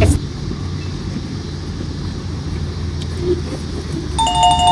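Steady low rumble of street traffic or an engine. Near the end comes a two-note electronic ding-dong chime whose tones hold for about a second.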